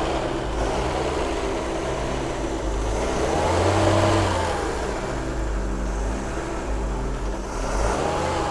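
Triumph Acclaim's Honda-built 1.3-litre four-cylinder engine idling smoothly on half choke, freshly started and still cold, with one gentle rise and fall in revs about four seconds in.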